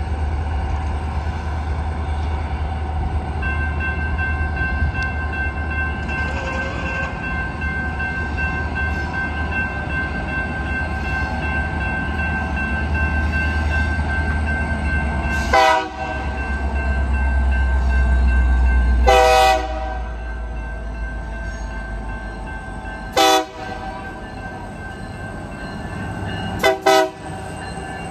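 Union Pacific freight train approaching behind two diesel-electric locomotives: the engines' low rumble grows louder, under a steady high-pitched squeal of wheels on the curving track. The lead locomotive's air horn sounds five short blasts through the second half, the second one the longest and the last two in quick succession.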